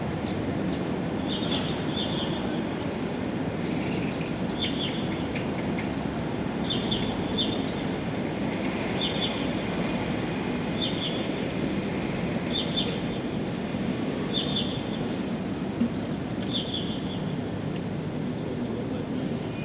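A songbird repeating a short call of quick, high, downward-sliding notes, often doubled, about once every one and a half to two seconds, over a steady low rumble of background noise.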